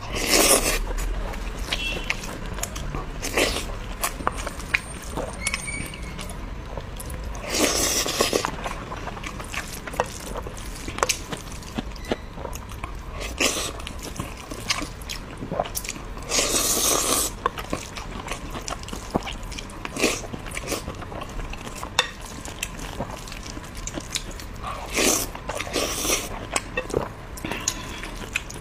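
Close-miked eating sounds: a person chewing rice and braised pork with wet mouth clicks, broken every few seconds by a louder noisy burst of eating noise.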